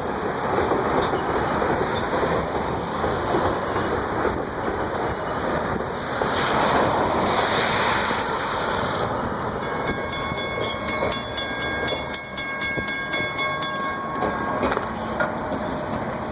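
Freight cars of a coal train rolling past, a steady rumble and clatter of wheels on rail. About ten seconds in, a steady high ringing tone with rapid regular ticking joins for around four seconds.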